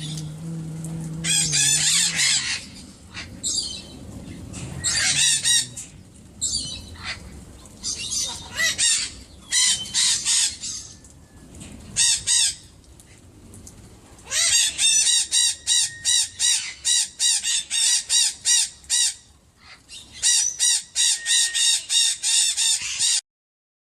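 Parrots calling loudly with harsh squawks. After a lull partway through, one breaks into a long run of rapid repeated calls, two or three a second, which stops abruptly near the end.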